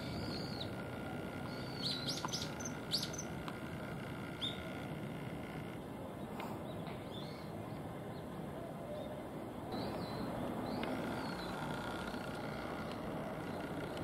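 Bird calls: a handful of short, high chirps in the first few seconds, then a few fainter ones near the end, over a steady low background hum.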